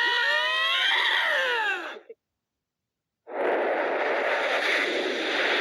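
Eurasian lynx yowling: long, wavering calls that slide up and down in pitch, cut off about two seconds in. After a second of silence comes a steady hiss of noise.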